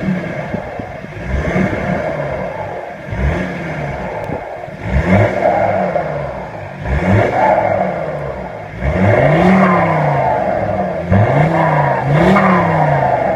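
Alfa Romeo diesel engine with its particulate filter removed, a remap and an open exhaust, revved about eight times in a row, the pitch rising and falling with each blip, the later revs longer.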